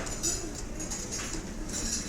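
Restaurant dining-room ambience: indistinct chatter of diners with cutlery and dishes clinking here and there.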